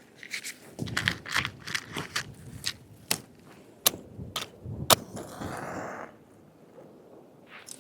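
Wood being snapped and handled: irregular sharp cracks and knocks, the two sharpest about three and five seconds in, followed by a rustle lasting about a second.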